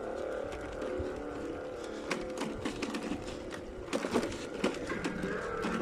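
Bicycle ride over a rough, rooty forest track: rattling and sharp knocks about two and four seconds in, over a steady whine of several tones.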